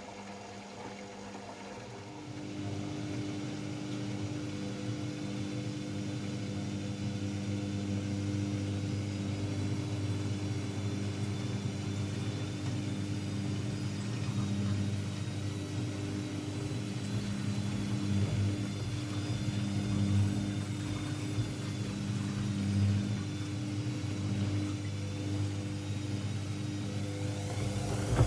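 AEG Lavamat L74810 washing machine's drum motor running with a steady hum, stepping up and getting louder about two seconds in.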